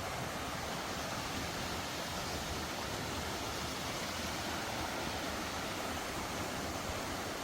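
Steady, even rush of a mountain valley stream.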